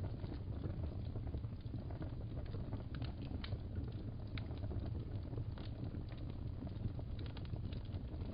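Fireplace fire crackling over a steady low rumble, with scattered sharp pops and snaps.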